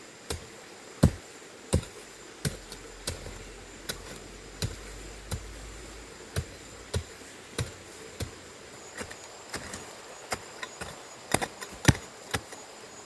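A small hoe chopping into the ground and a root, a series of sharp strikes about one to two a second that come faster near the end.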